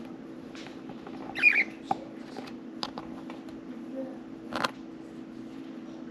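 Budgerigars making short squeaks and clicks, with one louder wavering chirp about a second and a half in, over a steady low hum.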